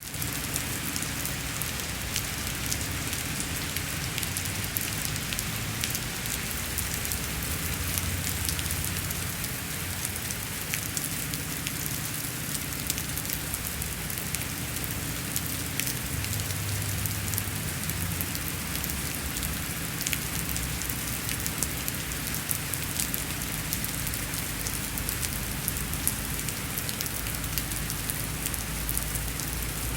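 Steady rain falling, with many separate drops ticking sharply on a surface over an even hiss, and a low rumble underneath.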